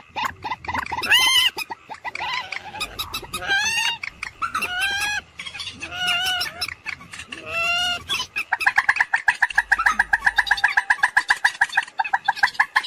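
Common moorhen calling. First come several loud arched calls, each rising and falling, about a second apart. From about eight seconds in, these give way to a fast, even run of short repeated notes, several a second.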